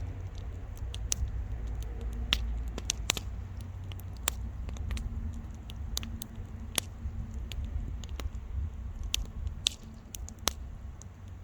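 Wood bonfire crackling, with irregular sharp pops and snaps from the burning wood over a low steady rumble.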